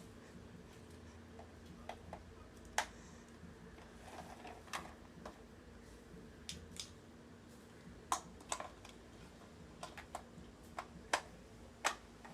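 Lego bricks being handled and pressed together, giving a dozen or so sharp, scattered clicks at irregular intervals over a faint steady hum.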